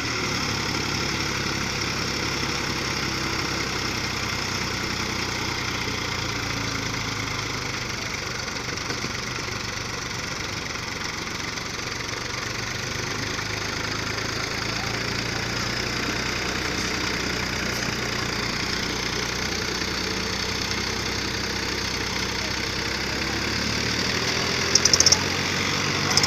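Tractor engine running steadily at an even speed, with a couple of brief louder sounds near the end.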